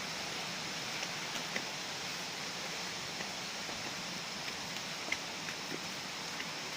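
Steady rushing of falling water from a waterfall, an even hiss, with a few faint short ticks scattered through it.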